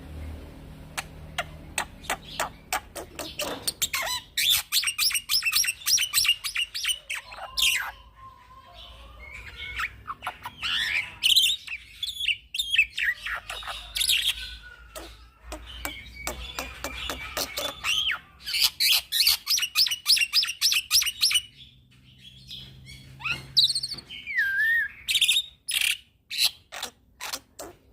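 Young black-winged starling (jalak putih) singing continuously in full song: long, fast runs of sharp chattering notes mixed with whistled glides and harsh squawks, broken by a few short pauses, with a falling whistle near the end.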